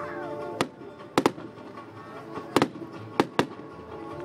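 Fireworks display: about six sharp bangs of bursting fireworks, two of them in quick succession, with music playing throughout.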